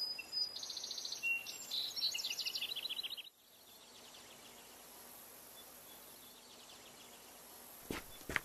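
A small bird singing: a high whistled note, then a fast trill that steps down in pitch, lasting about three seconds. Faint outdoor hiss follows, with a few sharp clicks near the end.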